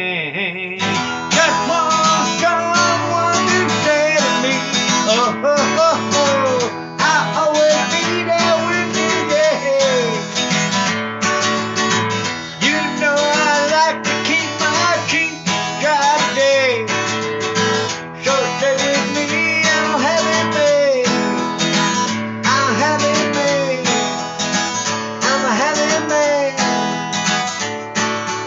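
Acoustic guitar played steadily in a strumming rhythm, with some notes gliding in pitch.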